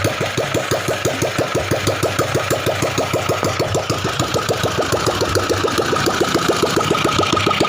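Ratna 350cc single-cylinder diesel engine converted to run on pertalite petrol with spark ignition, running with an even, rapid chugging beat. About five seconds in it picks up slightly, the beats coming a little faster and louder.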